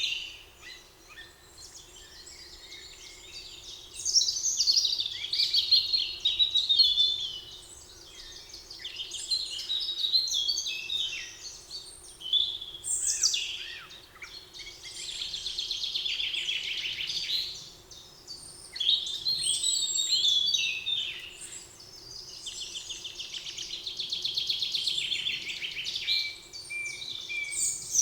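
Several songbirds singing in a spring forest, with overlapping phrases and rapid trilled runs of repeated notes.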